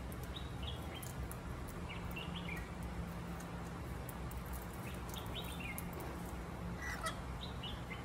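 Birds chirping: short clusters of high chirps every couple of seconds, with scattered faint ticks, over a steady low hum.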